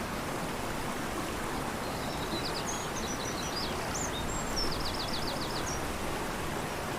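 Fast-flowing river rushing steadily, with a small bird singing high chirps and then a quick trill of about six falling notes, from about two seconds in to about six.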